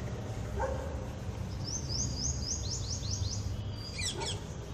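A small bird singing: a quick run of about seven high notes, each sliding downward, then a few sharper notes near the end. A short lower call comes about half a second in, over a steady low rumble.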